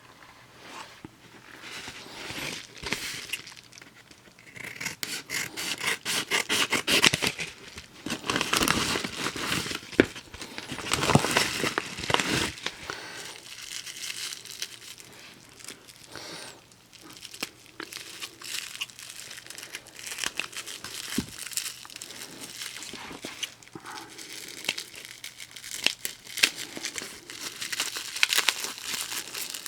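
Paper wrapper of a single stick of 1920s chewing gum crinkling and tearing as it is handled and unwrapped, in irregular bursts with small clicks, busiest in the first half.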